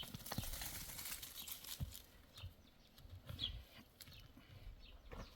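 Faint short, high falling chirps of a bird, one about three and a half seconds in and another near the end, over soft rustling and a few light knocks.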